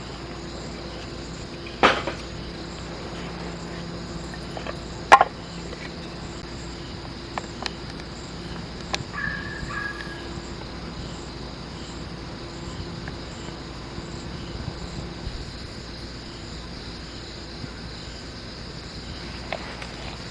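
Insects, crickets, chirping steadily in the background, with a few sharp knocks; the loudest come about two and five seconds in.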